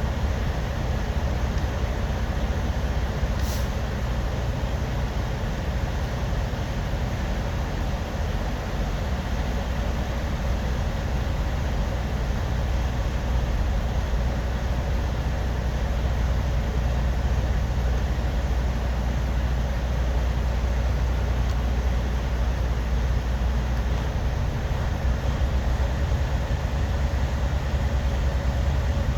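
Truck engine running steadily during calibration: a continuous low rumble that grows slightly louder about halfway through.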